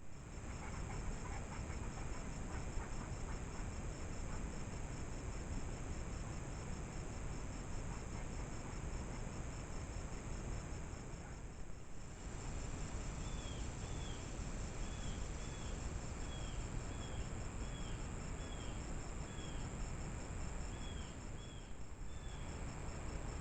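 Insects trilling steadily in a high, even pulse over the hiss of a trail camera's microphone. In the second half comes a series of short high chirps, roughly two a second.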